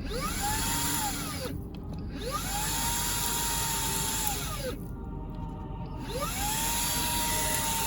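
Mini cordless vacuum cleaner's brushless motor switched on and off repeatedly. Each time its whine rises to a steady pitch with a rush of air, holds for a second or two, then winds down. It starts three times and stops twice, and is still running at the end.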